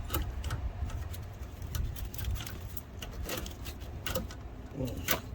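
Wind buffeting the microphone as a low rumble, with a dozen or so scattered light clicks and taps from hands and tools working on the brake lines and module.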